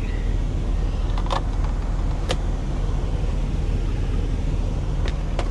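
Semi-truck diesel engine idling with a steady low hum, heard inside the cab, with a few light clicks over it.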